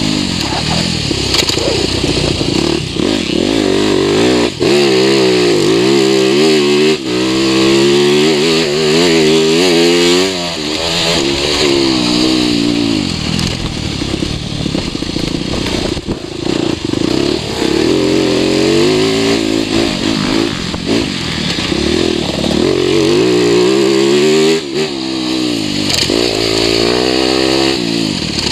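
2021 TM 300 EN Fi enduro motorcycle engine being ridden hard, its revs rising and falling over and over with brief drops in between.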